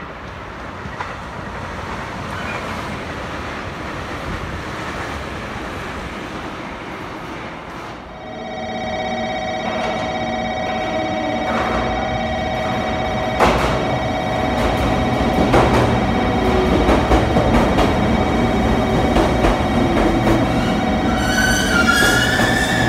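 A train running past with a steady rush, then an electric train pulling into a covered platform: its motors give a steady whine, the wheels click sharply over rail joints, and the brakes squeal with rising pitch near the end as it slows.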